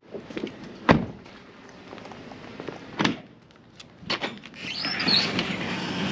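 Two sharp knocks about two seconds apart, then a few clicks and a longer rush of noise with a brief high squeal about five seconds in.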